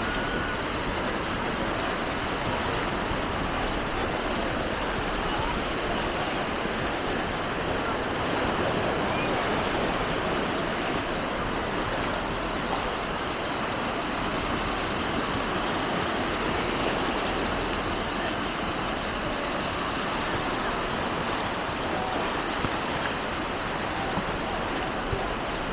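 Steady outdoor ambience on a walk along a busy beach: an even, unbroken wash of noise with no distinct events standing out.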